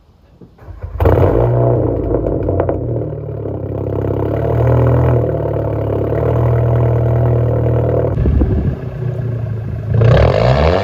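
2019 Volkswagen Jetta GLI's turbocharged 2.0-litre four-cylinder, exhaust straight-piped behind a catted downpipe, starting about a second in and running a loud, steady idle. Near the end the revs climb and the exhaust gets louder.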